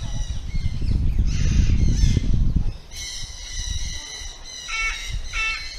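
A loud low rumble on the microphone for the first three seconds or so. After that, birds call in the aviary, with high thin tones and then a few short repeated squawks near the end.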